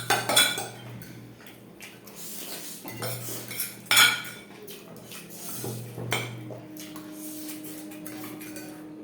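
Eating sounds from plates of noodles and potato chops: scattered clinks and knocks of cutlery and plates, the sharpest near the start and about four seconds in. A steady hum comes in about six seconds in.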